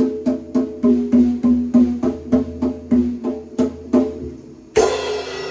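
Drums being played: a steady run of pitched drum strikes, about three a second, that dies down, then a loud crash that rings on, near the end.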